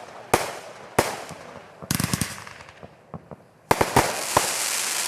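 Fireworks exploding: sharp single bangs about a second apart, a quick run of cracks near the middle, then a burst of bangs followed by steady dense crackling near the end.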